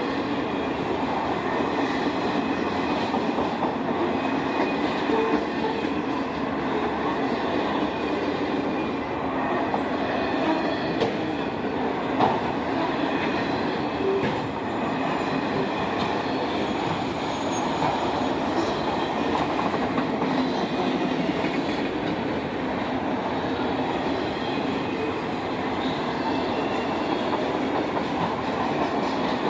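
Railroad cars rolling past in a steady rumble, with occasional sharp clicks from the wheels on the rails.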